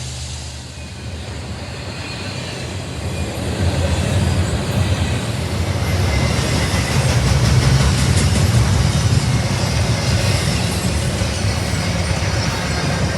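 A train rolling past on the rails, growing louder about three seconds in, with a low steady drone under the wheel noise.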